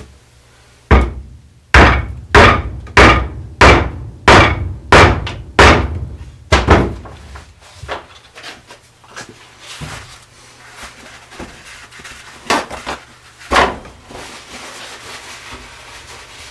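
Repeated sharp knocks on a wooden chair frame as glued tenons are driven home into their mortises: about nine hard blows, roughly one and a half a second. Then a few lighter, spaced-out knocks.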